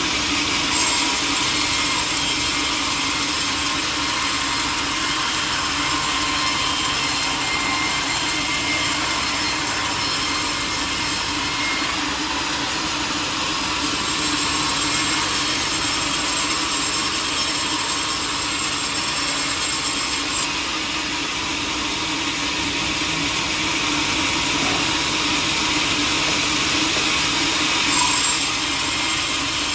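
A powered sawmill blade running and cutting steadily through a teak log, a continuous hissing saw noise, with three brief sharp clicks: about a second in, about two-thirds through and near the end.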